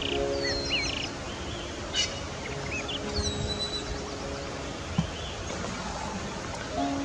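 Small wild birds chirping in short, curling high notes, most of them in the first half, over a steady outdoor hiss, with soft sustained background music notes underneath.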